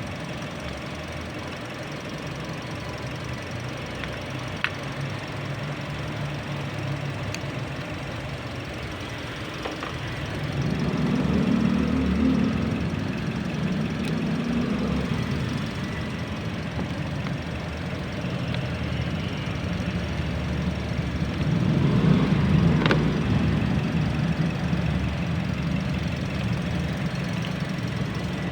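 Toyota Vios engine idling steadily, left running while the battery is swapped. It swells louder twice, and a few sharp clicks sound over it.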